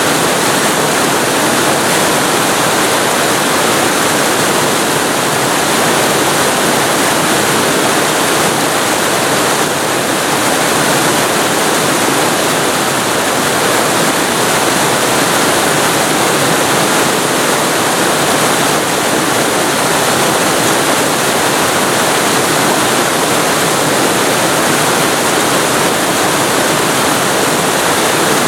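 Waterfall heard from very close, a loud, steady, unbroken rush of falling water.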